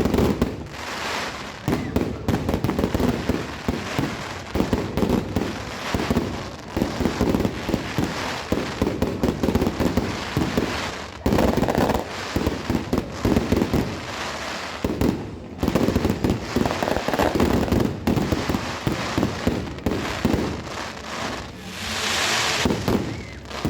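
A long string of firecrackers going off, dozens of rapid bangs a second crackling almost without pause, broken by short lulls about eleven and fifteen seconds in. Near the end comes a brief hiss.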